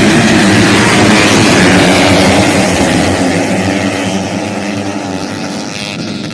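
Engine of a 165cc motocross bike running hard at high revs. It grows gradually quieter over the last few seconds.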